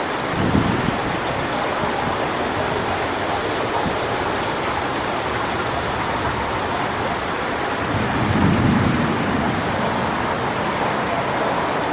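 Strong wind rushing through coconut palm fronds, a loud steady noisy rush, with two heavier low gusts, one about half a second in and one about eight seconds in.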